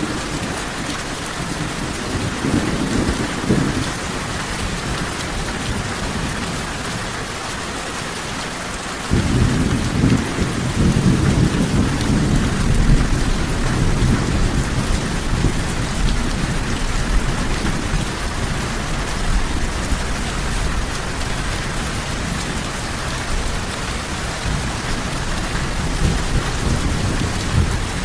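Steady rain falling, with thunder rumbling under it. A faint rumble comes early, and a loud low rumble starts suddenly about nine seconds in, then slowly dies down.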